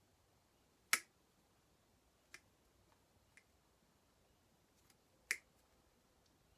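Sharp clicks and taps of small hand tools working at the plastic limiter caps on a Zama carburetor's mixture screws. The two loudest come about a second in and about five seconds in, with three fainter ticks between them.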